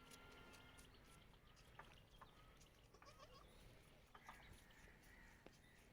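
Faint, sparse bleats of young goat kids, with a few small clicks, over otherwise near-silent background.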